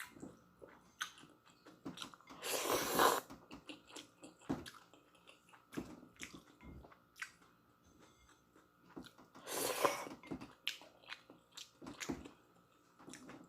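Close-up chewing of instant noodles: soft wet clicks and smacks throughout, with two louder, longer slurps, one a couple of seconds in and one near the end.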